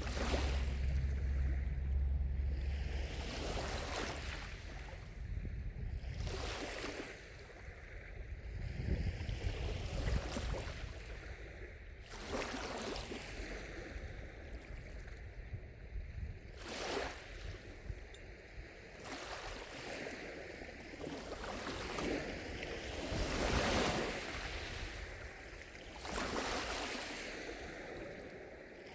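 Small lake waves lapping and washing against the shore, one wash every two to four seconds. A low wind rumble on the microphone sits under the first few seconds.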